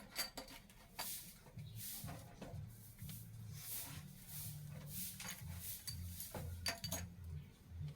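Scattered light clicks, clinks and short rubbing swishes of things being handled and wiped while cleaning inside a car.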